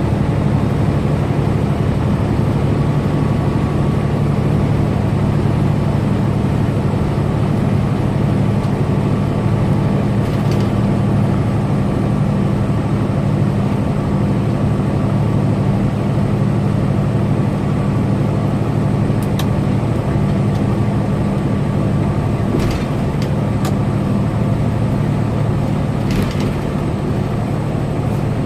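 Semi-truck's diesel engine and road noise at highway speed: a steady low drone. A few brief clicks come and go over it.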